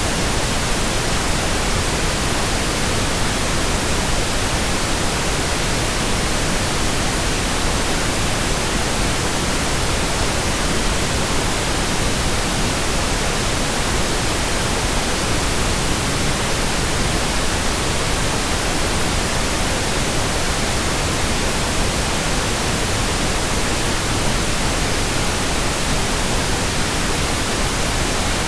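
Steady synthetic white noise: an even, unchanging hiss spread across the whole range from low to high.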